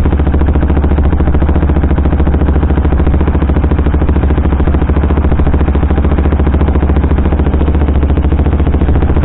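KTM sport motorcycle engine, running on a Powertronic ECU map, pulling steadily under way with an even, rapid pulsing beat.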